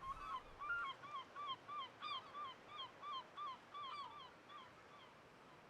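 Seabirds calling: a quick run of short calls that rise and fall in pitch, several birds overlapping at about three calls a second, thinning out near the end.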